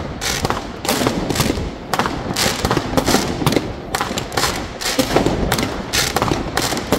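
New Year's Eve fireworks going off in many places at once: a dense, irregular barrage of bangs and crackles, several a second, with no let-up.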